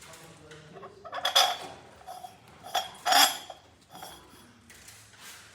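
Metal objects clanking and clinking together four or five times, the two loudest knocks followed by a brief metallic ring.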